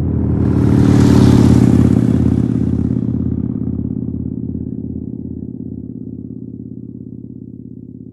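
Motorcycle engine catching suddenly and blipped with a burst of throttle, then settling into a steady, pulsing idle that slowly fades out.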